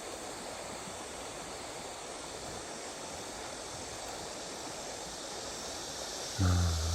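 Steady rushing of river water, an even hiss that does not change, from a river running high and muddy after a sudden downpour. A man's voice starts near the end.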